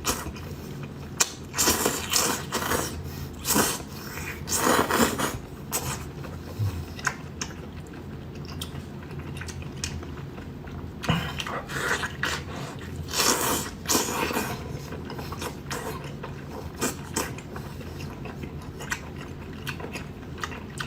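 Close-miked chewing and mouth noises of someone eating grilled lamb intestine rolls: irregular bites and chews, with louder bursts about 2, 5 and 13 seconds in.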